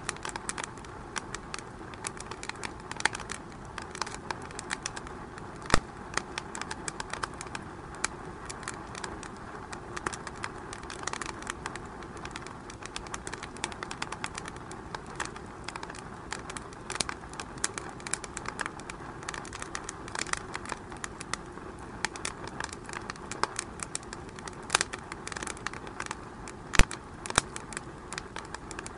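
Wood fire burning in a fireplace, crackling with many irregular small pops over a steady low hiss, and two sharper, louder pops.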